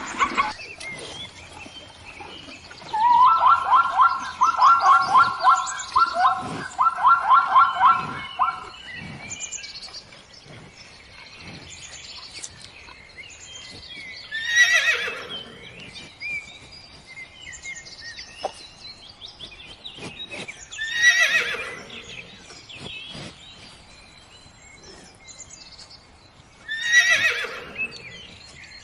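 A horse whinnying three times, each call sliding down steeply from a high pitch over about a second. Earlier, a run of rapid pulsed calls repeats in quick groups, with faint chirps throughout.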